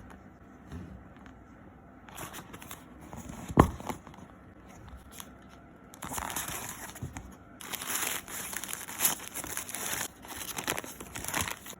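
Paper fast-food packaging rustling and crinkling in bursts as it is handled and opened, with a single sharp thump about three and a half seconds in.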